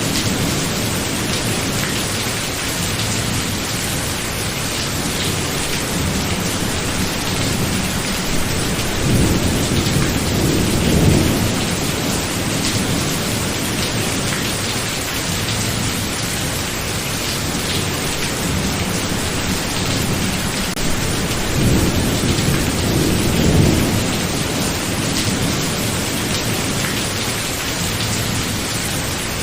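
Thunderstorm: steady rain falling, with two low rolls of thunder swelling and fading, one about a third of the way through and another about three quarters through.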